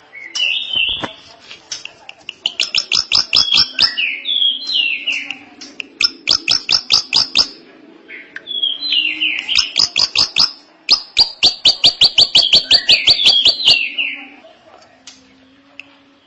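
Drongo (srigunting) singing: phrases of rapid, sharp clicking notes, about seven a second, alternating with short downward-slurred whistles. The song pauses near the end.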